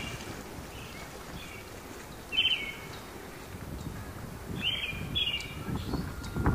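A songbird calling a short chirping phrase three times, the last two close together, over a steady low outdoor rumble.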